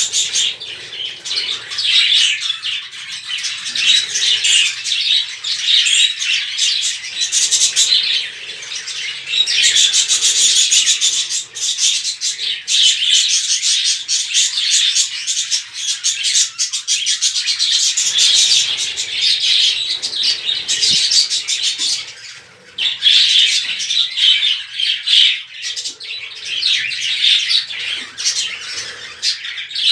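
A flock of budgerigars chattering and chirping, many birds calling over one another without pause, with a brief lull about two-thirds of the way through.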